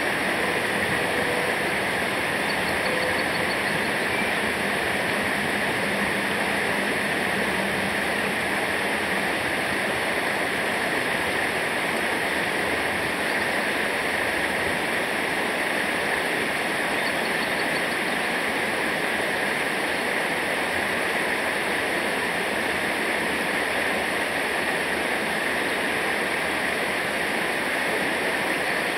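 Rushing water from river rapids or a waterfall, a steady, even roar with no breaks.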